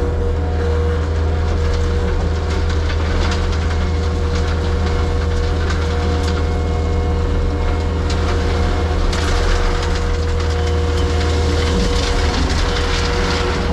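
Diesel engine of a compact excavation machine running steadily, with a constant hydraulic whine, under irregular crunching and scraping of stone being worked.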